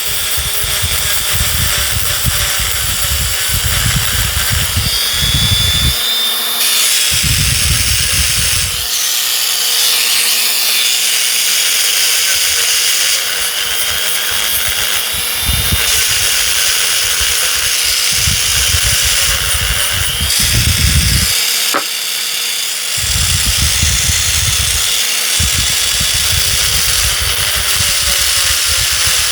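Small power tool running on low speed, grinding the old nickel-strip spot welds off the ends of 18650 lithium-ion cells. The motor runs steadily throughout, with repeated spells of grinding and short breaks as each cell end is worked.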